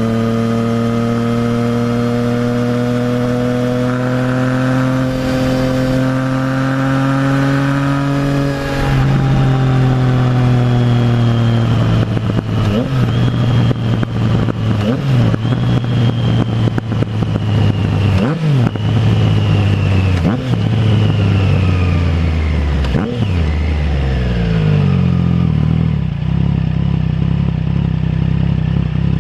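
Triumph Trident 660 inline three-cylinder through a full Zard exhaust: the engine note climbs steadily under gentle acceleration, drops about eight seconds in, then the bike slows with the exhaust crackling and popping on the overrun and several quick throttle blips on downshifts, settling to a low steady idle near the end.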